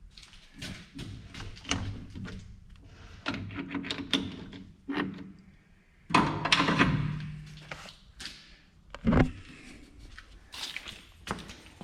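Irregular knocks and clatter of tools and metal parts being handled around a lathe, with a louder rattling scrape about six seconds in and a sharp knock just after nine seconds.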